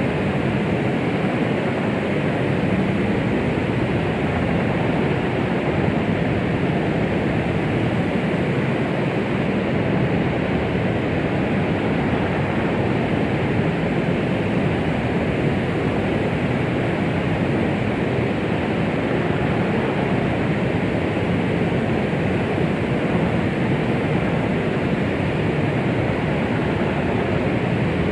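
Steady white-noise sleep sound, a soft even rushing hiss weighted toward the low and middle range, without rhythm or change. It is meant to imitate the sound of the womb and soothe a baby.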